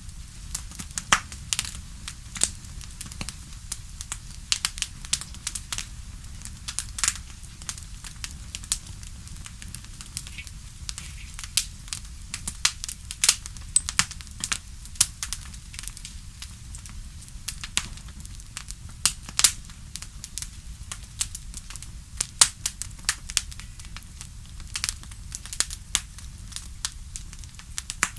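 Wood fire crackling in a fireplace: irregular sharp pops and snaps several times a second over a low, steady rumble of the flames.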